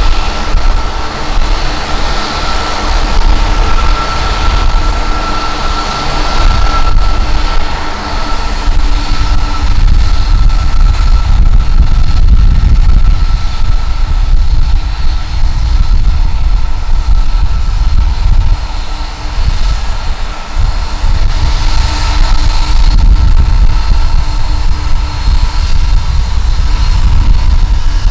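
Jet airliner engines running with a steady whine, under a heavy, gusty low rumble of strong wind on the microphone.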